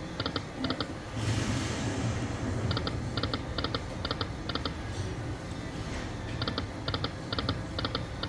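Sahara Gold poker machine spinning, its electronic reel sound giving quick clusters of two or three short ticks over and over. A steady low hum and hiss of the venue runs underneath.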